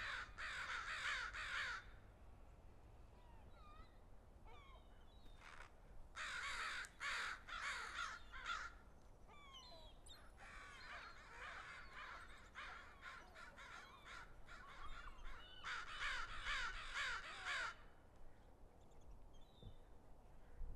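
A flock of crows cawing in four bursts of many overlapping harsh calls, with scattered single calls in between.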